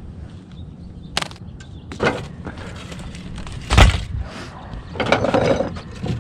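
Roof tiles knocking and clattering as they are handled and shifted, with a few separate hard knocks, the loudest a heavy thump about four seconds in, and a longer scraping clatter near the end.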